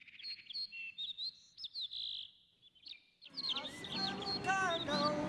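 Small birds chirping in quick, high calls. About three seconds in, a background of voices and noise comes in under the chirps.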